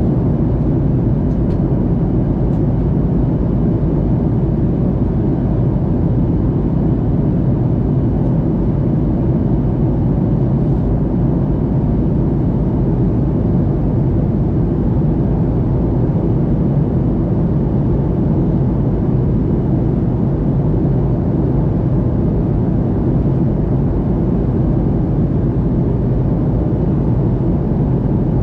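Airplane cabin noise in flight: a steady, unchanging low rumble.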